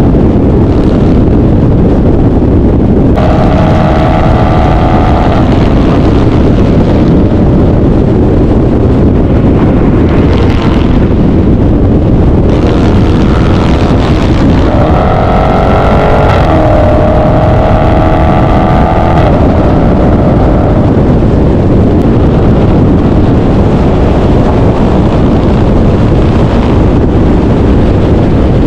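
Car engines running loud and close, with several short rises in engine pitch like revs.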